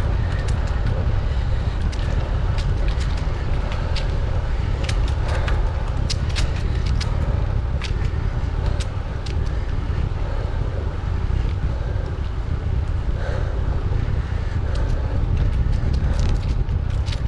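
Steady low wind rumble on the microphone of a riding bicycle, with irregular sharp ticks and crackles scattered throughout.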